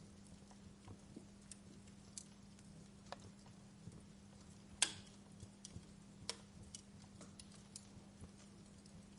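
Wood fire crackling in a fireplace: irregular sharp pops and snaps, the loudest about five seconds in, over a low hiss with a faint steady hum underneath.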